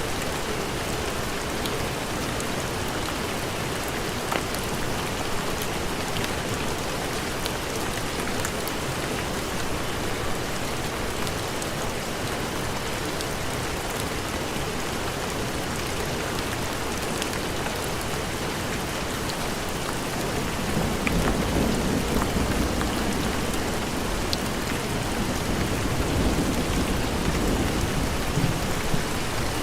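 Steady heavy rain, with a low rumble of thunder rolling in about two-thirds of the way through and swelling twice.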